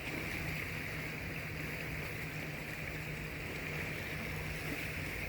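Floodwater rushing steadily where it runs across the road and into a culvert pipe, with a low steady hum underneath.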